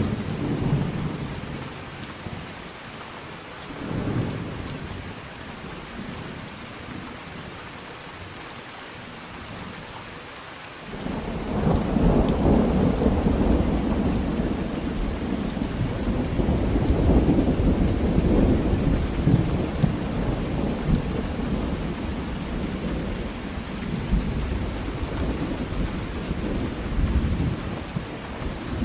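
Thunderstorm: steady rain falling throughout, with short rumbles of thunder near the start, then a long, loud roll of thunder setting in about eleven seconds in and rumbling on to the end.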